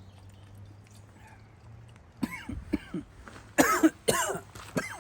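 A person coughing and clearing their throat in a run of short bursts that start about two seconds in, the loudest pair near the middle.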